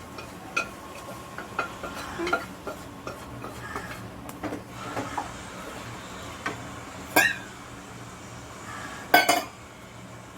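A spoon clinking and scraping against a cooking pot as chicken pieces are stirred into the curry masala, with scattered light knocks and two louder clanks, about seven and nine seconds in.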